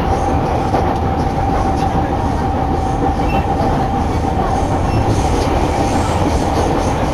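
Yamanote Line commuter train running on the rails, heard from inside the car: a steady low rumble with a constant whine running through it. Faint clicks of the wheels come through in the second half.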